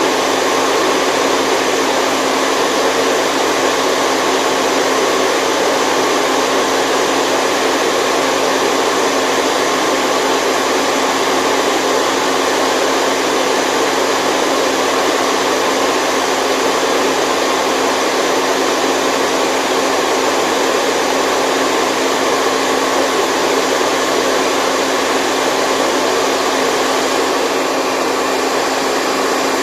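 Continuous white noise played as a baby sleep aid: an even, unchanging whoosh with a faint low hum running under it.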